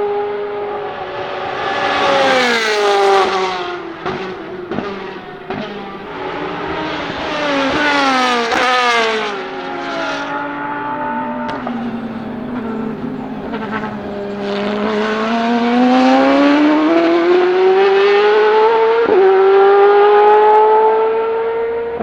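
Ferrari 458 Italia GT2 race car's naturally aspirated 4.5-litre V8 at high revs on track. The note drops in steps through downshifts with a few sharp cracks around four to six seconds in, climbs through quick upshifts, falls again, then rises in one long pull near the end.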